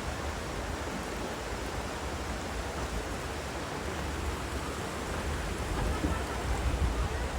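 Steady rushing noise of snowstorm wind, with low, uneven buffeting of wind on the microphone.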